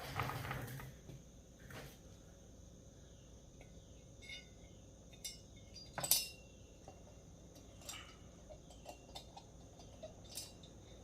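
Small metal parts being handled: a brief rustle at the start, then scattered light metallic clicks and clinks, the loudest about six seconds in, as cylinder bolts are fetched for a chainsaw engine. A faint steady high-pitched tone sits underneath.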